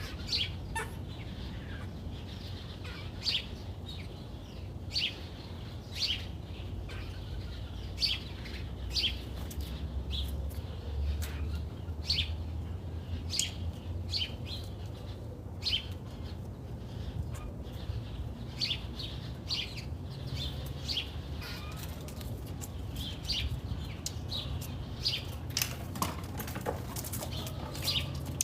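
Small birds chirping: many short, sharp chirps, about one or two a second, over a low steady rumble.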